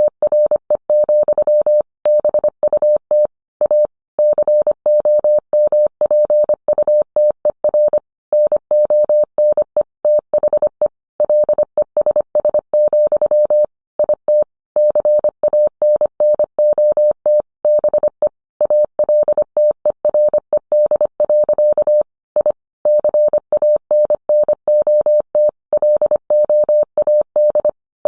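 Morse code sent as a single steady audio tone, keyed on and off in rapid dots and dashes with short pauses between words.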